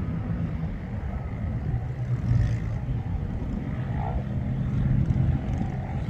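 Engines of off-road dune vehicles running across the sand, swelling a little in level now and then.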